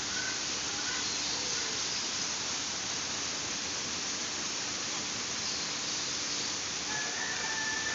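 A steady hiss, with faint short bird whistles now and then and a longer whistle near the end.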